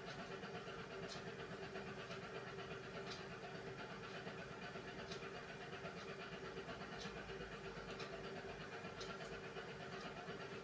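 Beko front-loading washing machine running a hand wash cycle: a steady motor hum, with faint light ticks every second or two as the load moves in the drum.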